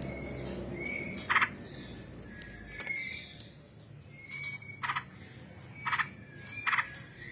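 Yellow-vented bulbul (trucukan) singing: sharp, loud, clipped notes at irregular intervals, mixed with short whistled notes.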